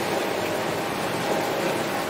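Heavy rain falling on a window, a steady, even rush of rain.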